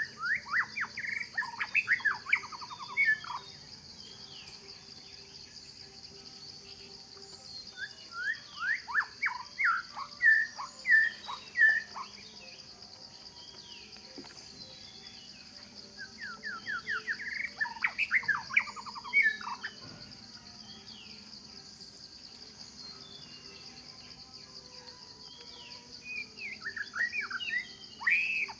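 A songbird singing a phrase of quick, sweeping whistled notes, repeated four times at roughly eight-second intervals, over a steady high-pitched drone of insects.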